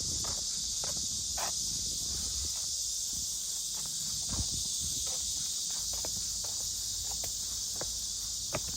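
A steady, high insect chorus, with scattered footsteps.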